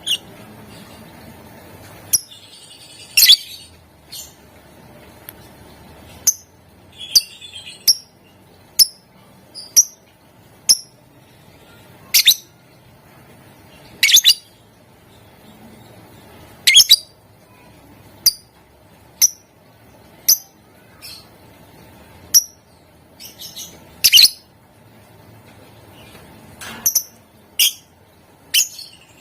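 Lovebird giving short, sharp, high-pitched chirps one at a time at uneven spacing, about one every second or two, with a few quick clusters of two or three.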